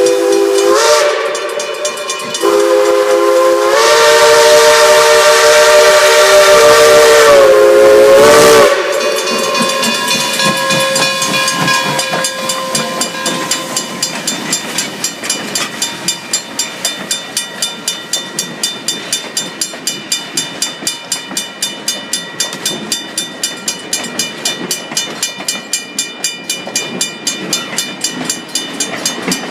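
Wilmington & Western No. 98, a 4-4-0 steam locomotive, sounding its multi-note chime whistle: a short blast, then a long one of about six seconds that cuts off sharply. After that comes steam hiss with a regular beat of about two to three a second as the train runs past.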